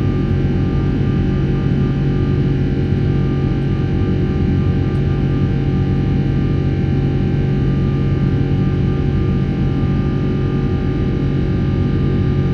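Rolls-Royce Trent 800 turbofans of a Boeing 777-300 running steadily, heard inside the cabin: a loud, even drone with a low hum and several held whining tones above it.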